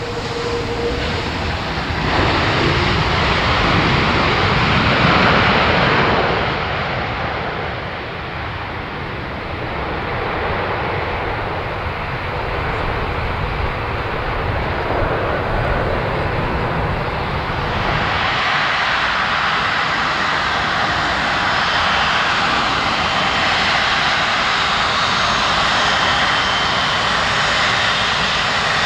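Airbus A330-243's Rolls-Royce Trent 700 jet engines heard loud during its landing, a dense rushing roar. It swells about two seconds in, eases slightly, then about eighteen seconds in loses its deep rumble and settles into a brighter steady roar.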